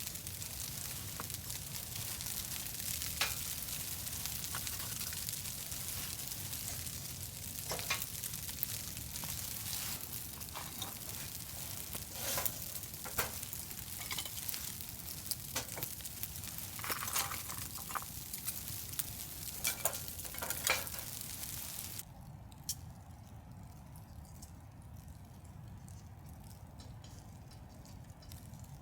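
Food sizzling in a pan, a steady hiss with scattered sharp clicks and pops. The sizzle cuts off abruptly about three quarters of the way through, leaving a quieter stretch with a few light clicks.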